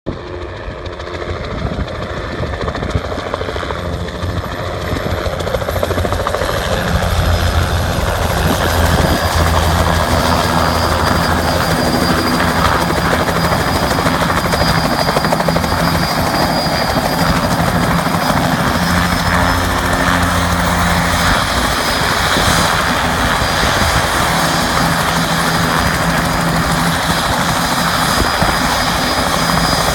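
Helicopter rotor and engine noise growing louder over the first several seconds as it comes in to land, then holding a steady, loud level.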